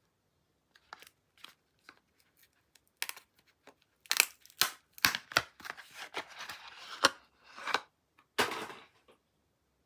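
Soap packaging being handled and opened by hand: scattered light clicks, then a cluster of sharp taps and a noisy scraping stretch about halfway through, and two more short bursts near the end.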